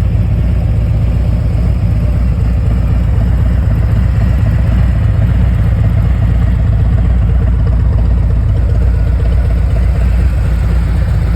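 Harley-Davidson Street Glide Special's Milwaukee-Eight 114 V-twin idling steadily through a Rinehart aftermarket exhaust.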